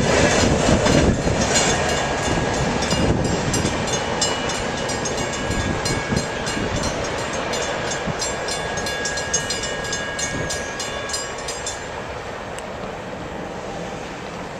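Freight train cars rolling past, steel wheels clicking in quick rhythm over the rail joints with a thin steady wheel squeal. The clicking stops about twelve seconds in and the rumble fades away.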